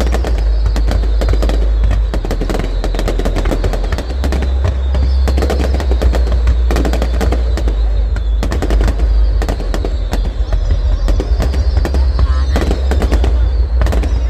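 Fireworks display: a dense, unbroken run of rapid crackling reports over a deep booming rumble.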